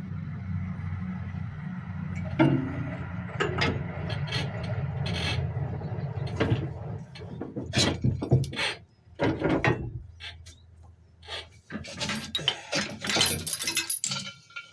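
Hand tools clicking, knocking and scraping on metal engine parts as the engine is worked loose and repositioned, busiest near the end, over a steady low hum that fades out about two-thirds of the way through.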